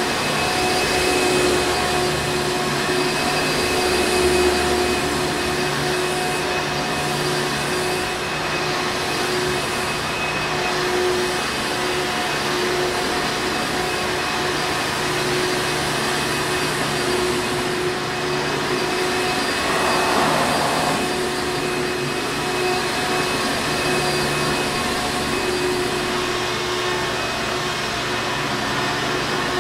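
Hoover Encore Supreme vacuum cleaner running steadily, a continuous motor whir with a steady whine.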